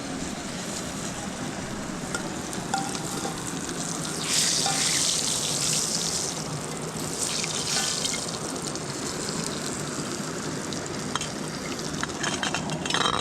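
Fish frying in hot oil in a pot: a steady sizzle that flares louder for about two seconds some four seconds in, and again briefly near eight seconds.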